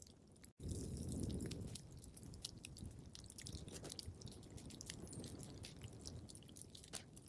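Wood fire crackling in a fireplace: many quick pops and snaps over a low rumble of burning. The sound cuts out for an instant about half a second in and comes back with the rumble louder.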